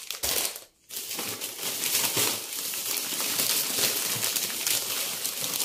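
Plastic snack packaging crinkling loudly as it is handled, starting about a second in and running on.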